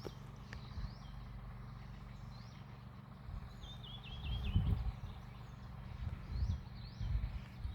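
Wild birds singing outdoors: short sweeping chirps repeat throughout, with a quick run of four or five notes about halfway through. Intermittent low rumbles and thumps sit beneath them and grow stronger in the second half.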